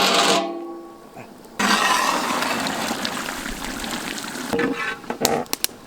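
Liquid rushing and splashing into a cooking pot. It starts suddenly and fades slowly over a few seconds, and a few knocks come near the end.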